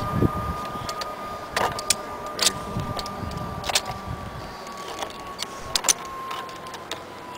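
Zipline trolley pulleys running along the steel cable with a thin, steady whine that slowly drops in pitch and fades as the rider travels away down the line. A few sharp clicks sound over it.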